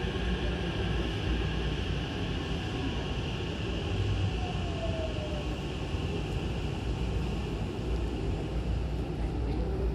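Hankyu commuter train running, heard inside the carriage: a steady rumble of wheels on the rails and the running gear, with a faint falling tone about four seconds in.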